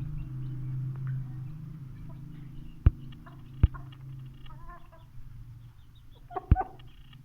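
Aseel chickens clucking in short calls, with three sharp knocks about three, four and six and a half seconds in. A low hum fades out over the first few seconds.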